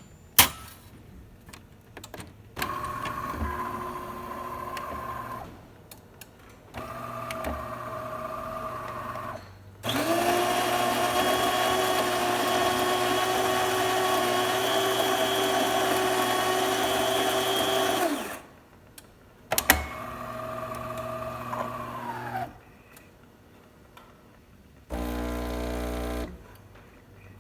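DeLonghi Magnifica bean-to-cup espresso machine running its brew cycle. Its motors whine steadily in several separate runs, with a few clicks at the start. The loudest and longest run, about eight seconds in the middle, is the grinder grinding beans. A low buzz near the end is the pump starting to push water through.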